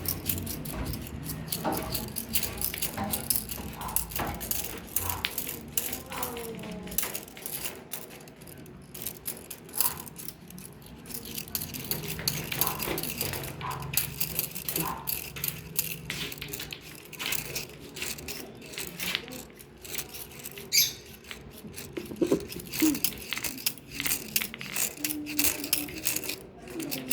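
Lato-lato clacker balls clicking and rattling in irregular, scattered knocks as kittens bat the toy around, with faint voices now and then.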